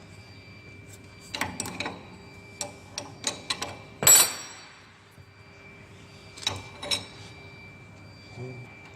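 Scattered metallic clicks and knocks of small metal objects being handled, with one loud ringing clink about four seconds in, over a faint steady machine whine.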